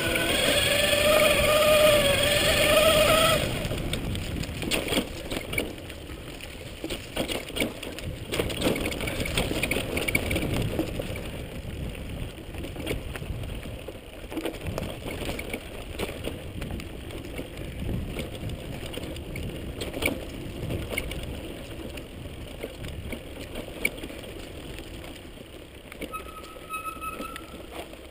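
Electric mountain bike riding a rocky dirt trail: a whine that rises slightly over the first three seconds or so, then tyres crunching and the bike rattling and knocking over rocks, with many irregular sharp knocks.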